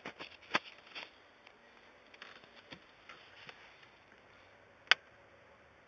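Light scattered clicks and taps, with one sharp click about five seconds in; no engine running.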